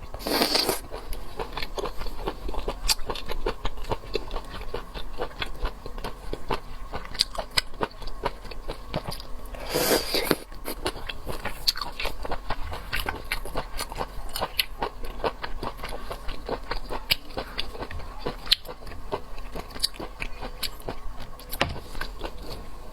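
Close-miked mouth sounds of a person eating shellfish off skewers: biting and chewing with many small wet clicks, and two louder, longer sounds about half a second in and about ten seconds in.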